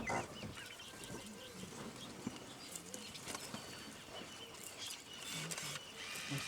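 Quiet bush ambience with faint, scattered bird chirps.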